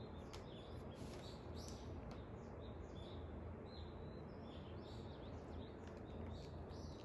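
Birds chirping faintly, many short calls scattered throughout, over a steady low background noise.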